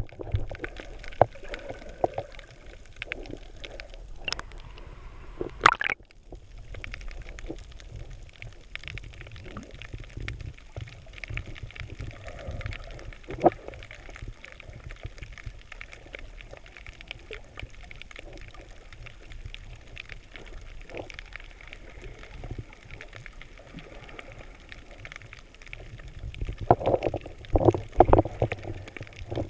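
Water gurgling and sloshing around the microphone, with many small clicks and crackles throughout and louder splashy bursts near the end.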